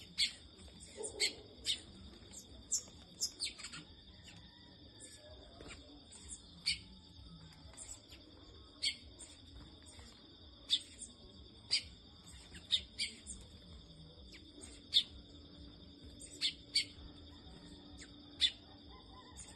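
Short, sharp bird chirps repeated at irregular intervals, roughly one every second, over a steady high-pitched insect drone.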